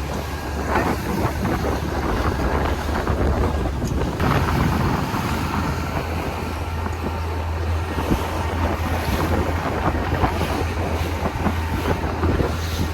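Wind buffeting the microphone over a motorboat's engine running at slow no-wake speed, a steady low hum.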